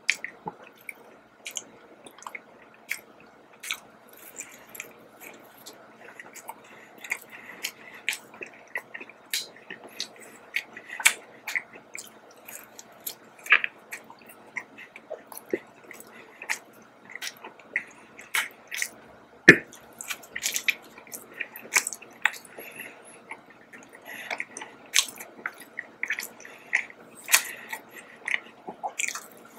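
A person chewing and biting a soft ring doughnut, with many short, irregular mouth clicks and one louder click about two-thirds of the way through.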